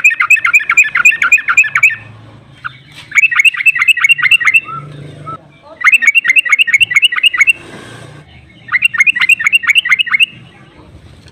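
Yellow-vented bulbul (trucuk) giving its fast chattering 'ropel' call: four bursts of quickly repeated sharp notes, about seven a second, each burst lasting a second and a half to two seconds with short pauses between.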